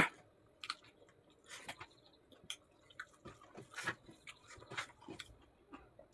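Close-up chewing of pork: soft, irregular mouth smacks and wet clicks of eating.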